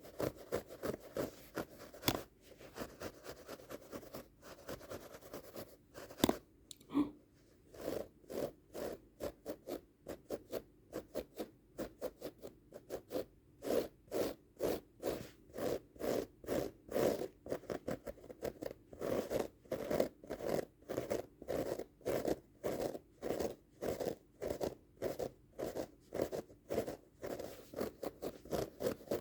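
Rapid rhythmic scratching on a carpet rug, about two to three rasping strokes a second, with a short pause about six seconds in.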